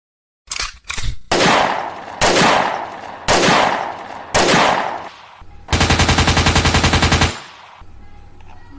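Gunfire: a couple of quick cracks, then four loud single shots about a second apart, each with a long echoing tail, then a burst of rapid automatic fire, about ten rounds a second, for about a second and a half.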